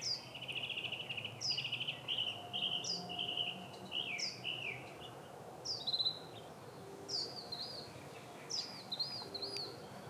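Songbirds singing: a rapid trilled song for the first half, and short chirps that slide downward in pitch, repeated about once a second throughout.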